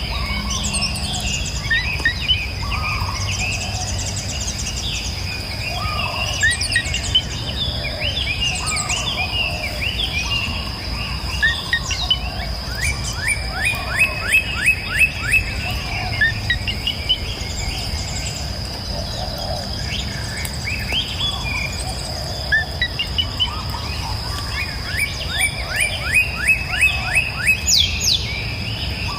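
Several birds singing: a mix of chirps and quick runs of falling notes, with bursts of rapid trills. Beneath them is a constant high-pitched insect drone and the low steady rush of a flowing river.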